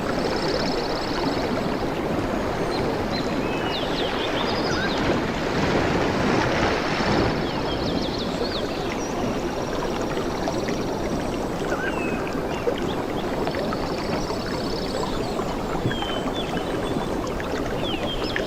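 Ocean waves washing steadily, swelling briefly near the middle, with birds chirping and a few high rapid trills over the surf.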